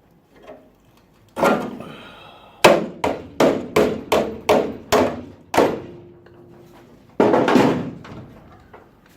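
Hammer blows on metal: a single blow, then a quick run of about eight blows at two to three a second, and one last heavier blow near the end.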